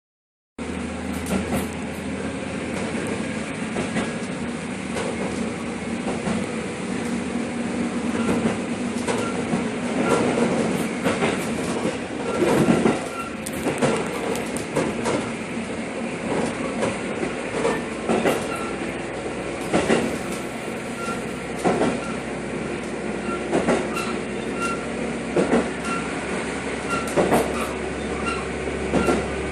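Train running along the track, with the wheels knocking over rail joints every second or two above a steady rumble. It starts after half a second of silence.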